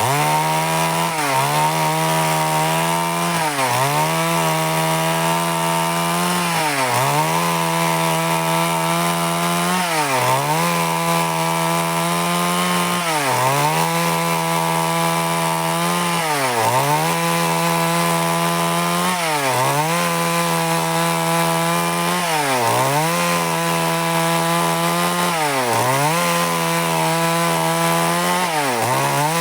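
Stihl MS 382 two-stroke chainsaw running at high revs, cutting wood into boards. Its pitch dips briefly and recovers about every three seconds.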